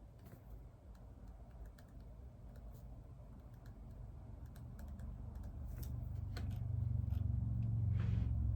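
Typing on a computer keyboard: scattered, irregular key clicks. A low rumble swells through the second half and becomes the loudest sound, and there is a brief hiss near the end.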